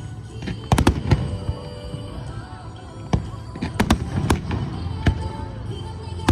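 Aerial fireworks bursting in a scattered series of sharp bangs, a quick cluster about a second in and single bursts after it, over a continuous low rumble.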